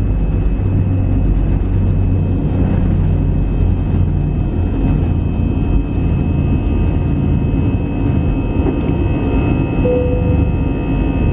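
Airbus A320-200 engines and airflow heard inside the passenger cabin: a loud, steady low rumble with a high whine. From about nine seconds in, more high tones join the whine, and a short tone sounds about ten seconds in.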